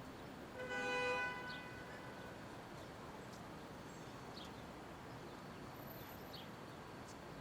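A single short car-horn toot, about a second long, near the start, over steady city street noise.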